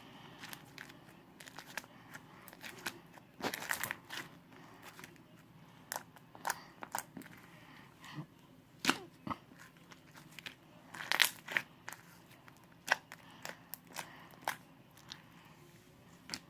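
Hands kneading and mixing slime: irregular sticky clicks, pops and crackles, with a louder burst of them near the middle.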